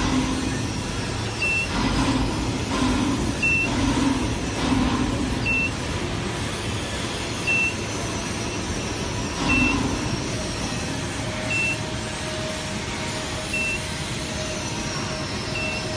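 Steady machinery noise with a short, high beep repeating about every two seconds, like a warning beeper. About ten seconds in, a steady hum tone joins.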